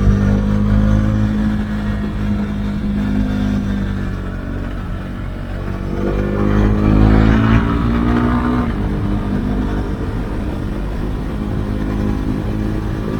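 Husqvarna Svartpilen 401's single-cylinder engine through an Akrapovic exhaust with the dB-killer removed, running under way. The revs climb from about six seconds in and drop sharply a little before nine seconds, then settle steadily.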